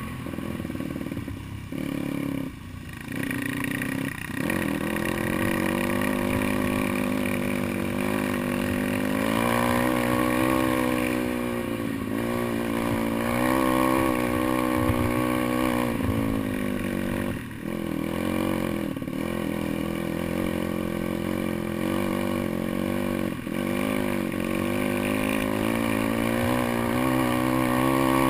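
Pit bike engine running under changing throttle on an off-road trail, its pitch repeatedly rising and falling, with a few brief drops as the throttle is shut.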